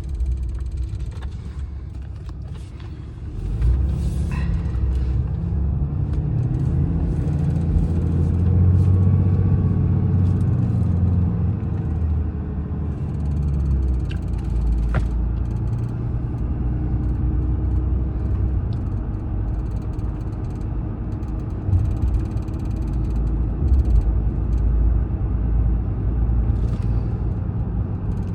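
Car cabin road and engine rumble while driving, swelling about four seconds in. Scattered faint clicks and ticks from a Bulletpoint Mounting Solutions phone charging cradle rattling in its dashboard mount.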